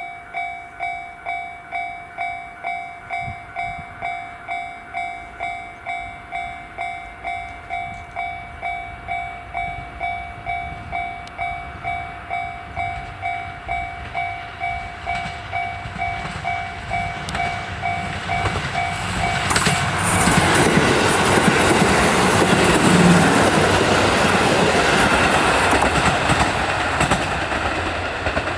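Level-crossing warning bell ringing at about two dings a second. About twenty seconds in, a KiHa 183-1000 diesel railcar express passes, and its loud running noise and wheel clatter drown out the bell.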